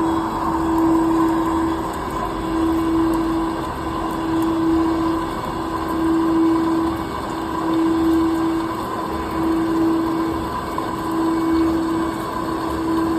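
CNC machine cutting metal: a steady mechanical hum with a tone that swells and breaks off in a regular cycle about every second and a half.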